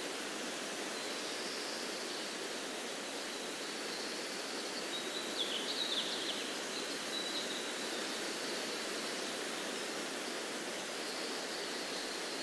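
Steady rushing outdoor nature ambience with faint high birdsong drifting in and out, and a short burst of quick bird chirps about halfway through.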